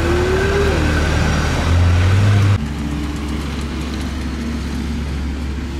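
A McLaren 720S's twin-turbo V8 running at low revs as the car pulls slowly away, a loud steady low drone. About two and a half seconds in it cuts off suddenly to a quieter, steady engine drone.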